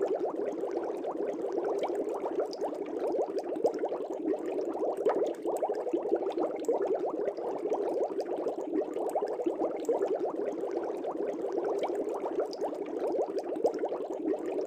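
Air bubbles burbling steadily in a fish tank, a dense stream of many small overlapping pops.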